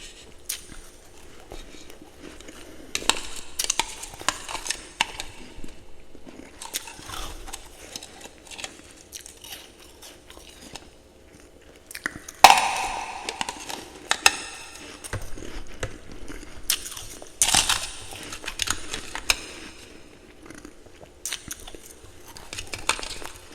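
Ice being bitten and chewed close to the mouth: groups of crisp crunches every few seconds with quieter chewing between them. The loudest bite comes about halfway through.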